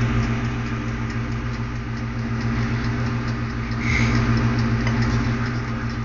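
Toaster oven running with its heating elements on: a steady low electrical hum.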